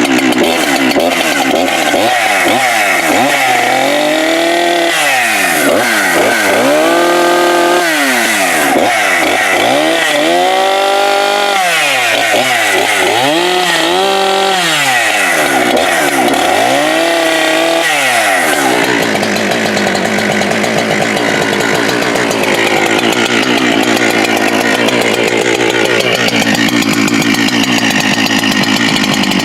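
Husqvarna 394XP two-stroke chainsaw revved up and down in a string of short bursts, then held at high revs for the last ten seconds or so, its pitch wavering.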